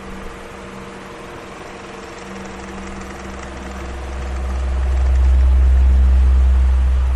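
Electric fan running with a steady motor hum and airy whoosh. A few seconds in, a low rush of air on the microphone swells up and then eases off again.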